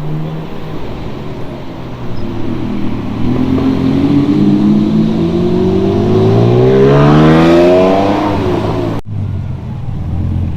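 A supercar's engine accelerating hard, its pitch climbing steadily for several seconds and growing louder to a peak. It cuts off suddenly, and a lower, steadier engine sound follows.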